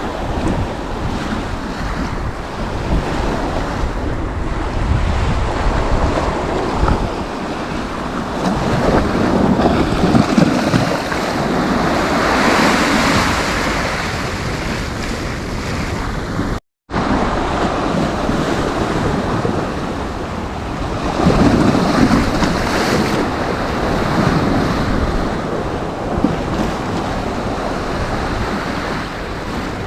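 Sea waves breaking and washing on a sandy beach, a continuous rushing that swells up twice as bigger waves come in, with wind buffeting the microphone underneath. The sound cuts out completely for a split second a little past halfway.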